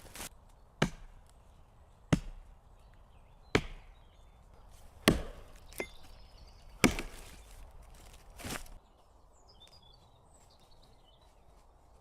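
Wood being chopped: six sharp blows about a second and a half apart, the last one softer, after which the chopping stops.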